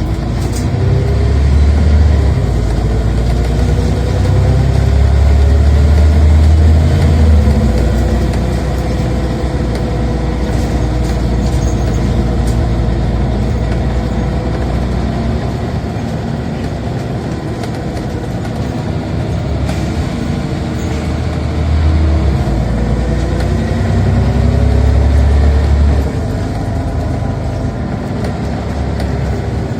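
Scania Omnicity bus's engine and ZF automatic gearbox heard from inside the bus, pulling hard under acceleration, with a deep rumble and a whine that rises in pitch. It eases off about seven seconds in, then pulls hard again from about 22 seconds until it drops off suddenly at about 26 seconds.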